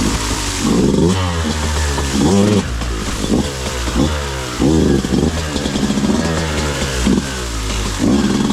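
Beta 200RR two-stroke dirt bike engine revved in repeated short bursts, its pitch climbing and dropping again and again.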